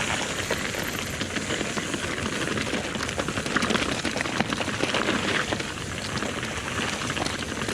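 Mountain bike riding fast down a dirt trail: a steady rush of tyre and wind noise, with many small clicks and rattles from the bike over the rough ground.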